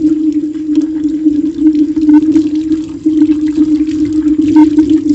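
Kitchen tap running steadily into a sink during hand dishwashing, with light clinks of metal utensils being rinsed.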